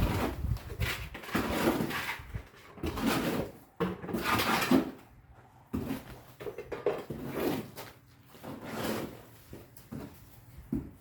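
Repeated scraping or rubbing strokes at irregular intervals, each lasting about half a second to a second.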